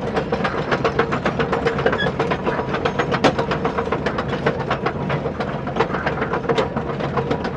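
Small electric gear motor of a toy RC construction vehicle running with a steady whine and rapid, irregular clicking from its plastic gears or tracks.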